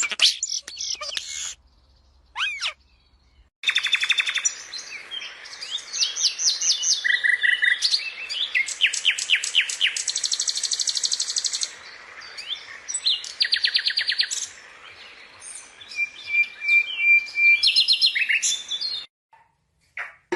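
Songbirds chirping and singing, with fast trills and runs of repeated high notes. After a short pause a few seconds in, the song comes thick and busy, then stops shortly before the end.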